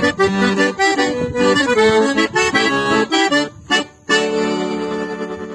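Accordion playing the closing instrumental phrase of a gaúcho song. About three and a half seconds in there is a brief break, then a final held chord that fades out.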